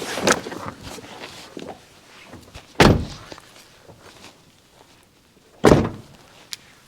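Two vehicle doors slammed shut about three seconds apart, heavy thuds from the camper van's doors, with lighter handling noises before them and a small click near the end.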